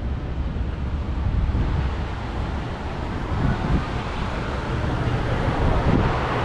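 Steady city street noise: a low rumble of traffic with wind buffeting the microphone, swelling slightly near the end.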